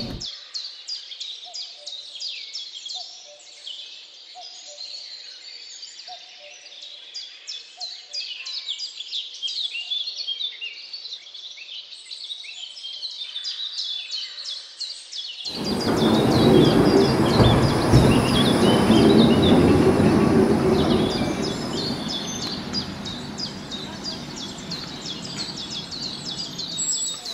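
Small birds chirping and singing. About halfway through, a loud rushing noise starts abruptly, then fades away over several seconds while the birdsong carries on.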